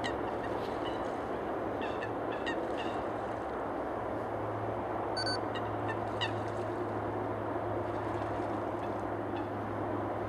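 Waterfowl by a river giving short, scattered calls over a steady background rumble, with a low hum growing stronger about four seconds in.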